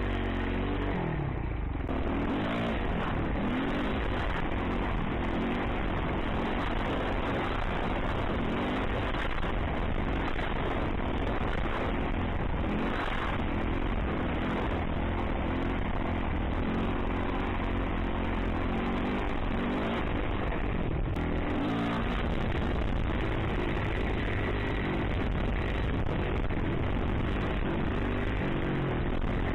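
Yamaha YZ450F dirt bike's single-cylinder four-stroke engine revving up and falling back again and again as the rider accelerates and shifts, over a heavy low wind rumble on the microphone.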